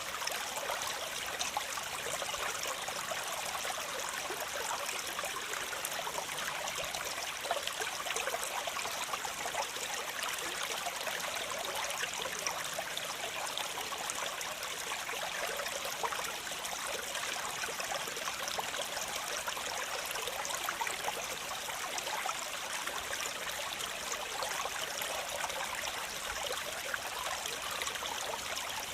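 Waterfall water splashing and rushing in a steady, unchanging hiss of fine splashes, with little low rumble.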